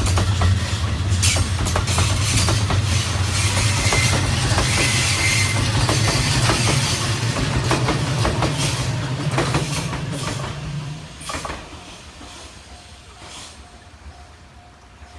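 Shiki-shima (JR East E001 series) passenger train passing close by, its wheels clacking over rail joints over a steady low hum. The sound fades away about eleven seconds in as the last car goes by.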